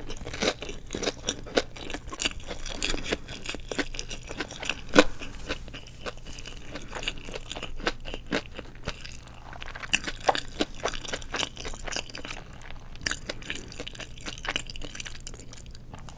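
Close-miked crunching and chewing of deep-fried seaweed rolls (glass noodles wrapped in nori): a run of crisp crackles as the fried shell breaks, with a sharper crunch about five seconds in.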